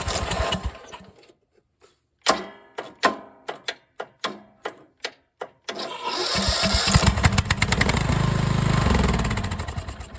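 Replacement engine on a Craftsman LT1000 riding mower being started on a shot of carb cleaner: it cranks with a string of sharp uneven pops, catches about six seconds in and runs steadily for a few seconds, then begins to die away at the end. The owner puts the stalling down to fuel starvation from a makeshift fuel setup.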